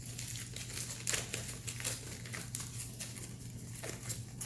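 Close-up eating sounds: chewing and mouth noises making a run of quick, crisp crackly clicks, over a steady low hum.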